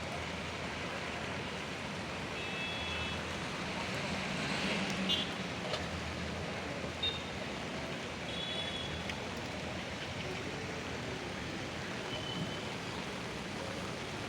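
Steady wash of rain and traffic on a flooded, wet street, with a few short high tones breaking through now and then.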